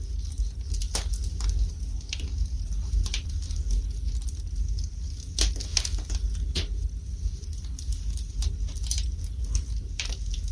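Wood fire burning in a fireplace, crackling with irregular sharp pops, the loudest a little past halfway and again near the end, over a low steady rumble.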